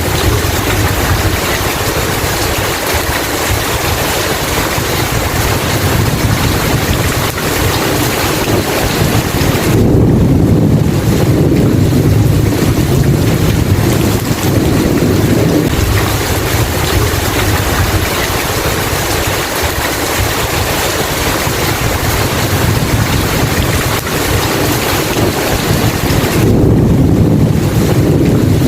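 Steady heavy rain with low rolling thunder, a rumble swelling about ten seconds in and another near the end.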